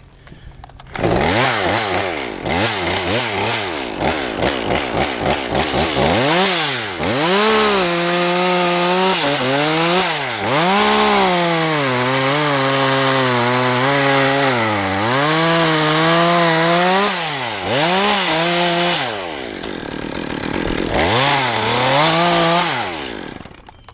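Chainsaw cutting a notch in a pine: blipped in short revs, then held at high speed with its pitch sagging and recovering as the chain bites into the wood. It eases off briefly near the end, picks up again, then cuts off.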